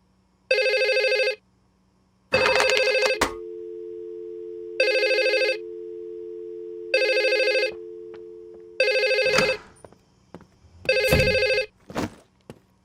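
Telephone ringing: about six short electronic trilling rings, repeating every couple of seconds, with a steady tone held between some of them and a few knocks near the start and toward the end.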